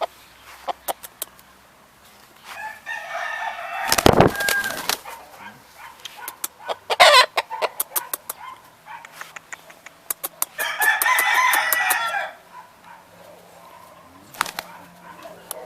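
Spanish game roosters crowing, two long crows about eight seconds apart, one about two and a half seconds in and one about ten seconds in. Loud knocks come near four and seven seconds in, and short sharp clicks are scattered throughout.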